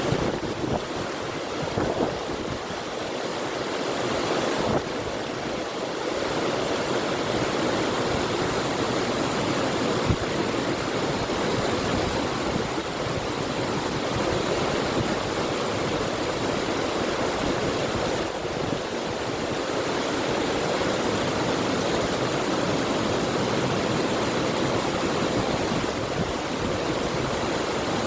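River water flowing steadily in an even rush, with wind, and a few brief clicks in the first ten seconds.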